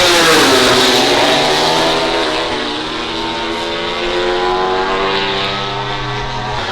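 MotoGP racing motorcycle engines at high revs: the pitch of one bike drops sharply as it passes just after the start, then high engine notes hold and rise and fall with the throttle through the rest.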